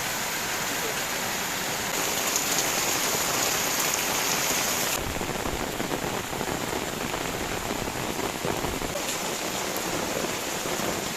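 Heavy rain pouring down in a steady hiss, its tone shifting abruptly a few times.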